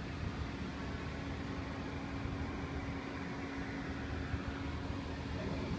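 Steady low rumble of running machinery, with a steady hum tone that sets in shortly after the start.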